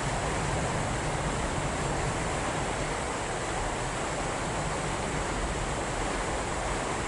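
A jet airliner's engines heard at a distance: a steady rushing noise that eases slightly toward the end.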